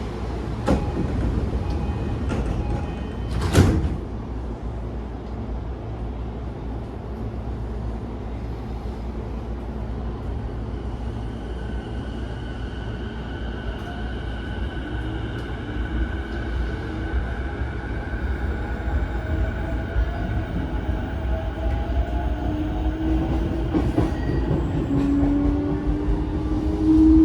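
E233-5000 series electric commuter train running, heard aboard: a steady low rumble with a sharp knock about four seconds in. In the second half the traction motors' whine rises in pitch as the train picks up speed.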